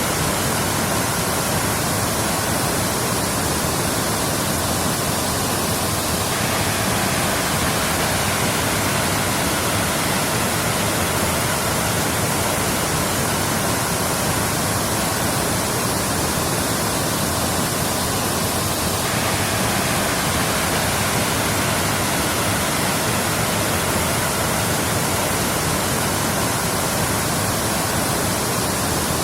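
Waterfall: water falling and splashing in a steady, even rush with no let-up.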